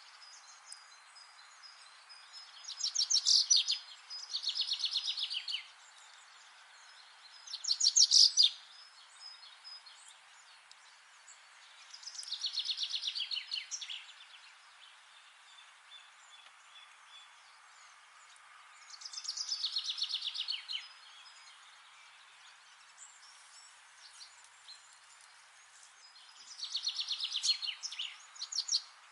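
Songbird song: six rapid, trilled phrases of about one and a half to two seconds each, spaced several seconds apart, over a steady faint background hiss.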